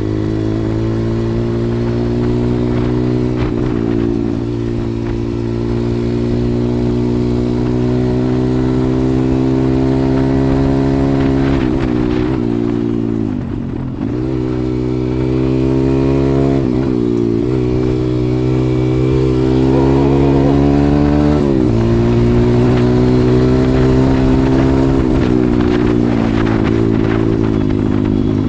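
140cc single-cylinder pit bike engine riding at steady revs, its pitch dropping and climbing back several times as the throttle is eased and reopened, most deeply about halfway through.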